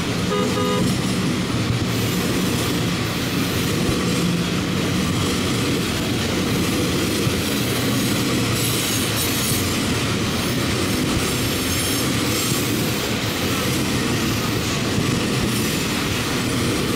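Freight train of covered hopper cars and boxcars rolling past, a steady rumble and clatter of wheels on the rails. High-pitched wheel squeal comes in from about halfway through.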